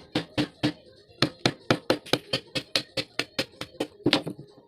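A rapid, even run of sharp knocks, about four to five a second, each with a brief ring, stopping just before the end.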